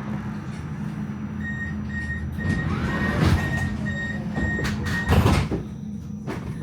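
Melbourne tram at a stop, its low steady hum underneath a run of about eight short high door-warning beeps, two a second. The doors slide with heavy knocks at about three seconds and again near five seconds, the second the loudest.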